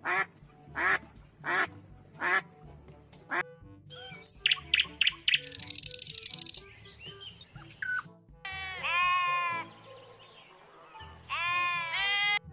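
A string of animal calls over background music: a mallard duck quacking several times, then short bird calls and a fast high trill, then two long wavering sheep bleats in the last few seconds.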